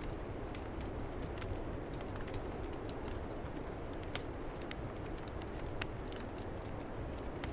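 Fireplace fire crackling with many small, sharp pops over a steady low rush of snowstorm wind.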